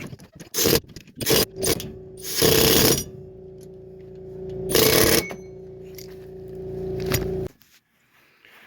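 Impact wrench firing in five short bursts over a steady hum. The sound cuts off abruptly near the end.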